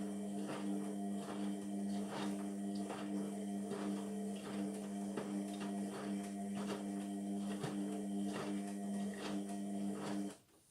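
Indesit MTWC71252WUK washing machine running mid-cycle: a steady motor hum with irregular clicks and knocks over it, cutting off suddenly near the end.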